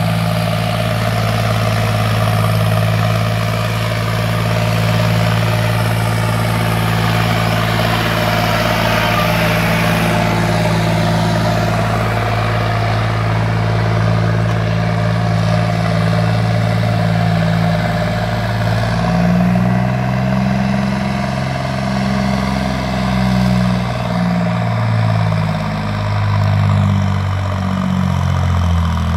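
John Deere 5310 tractor's diesel engine, fitted with an aftermarket turbo and custom exhaust, idling steadily, then revved up and back down in a run of short blips from about two-thirds of the way through.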